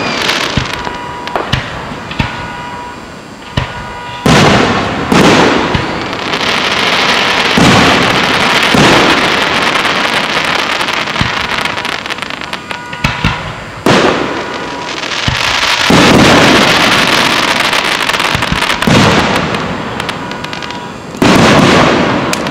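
Aerial firework shells bursting overhead in a show: about eight sharp bangs at irregular intervals, each trailing off into a long rumble, with a continuous noisy rush between them.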